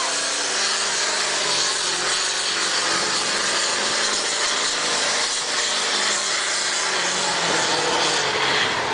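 Heavyweight pulling tractor's engine running hard at high revs, a loud, steady mechanical noise whose pitch sags a little early on.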